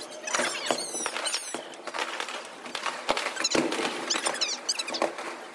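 Fireworks going off across a city: a string of sharp bangs and pops over a constant crackle, with short high-pitched squeaky chirps in between.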